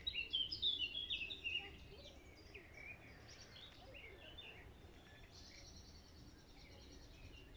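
Small birds singing and chirping, busiest in the first two seconds, with a high trill about five seconds in, over a faint steady low rumble.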